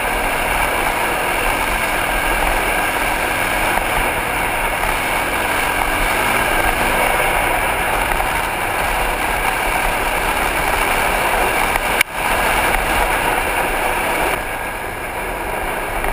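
Single-cylinder four-stroke dual-sport dirt bike engine running under way on a trail, heard from a helmet camera together with steady wind noise. There is a sharp break in the sound about twelve seconds in, and it is a little quieter for the last couple of seconds.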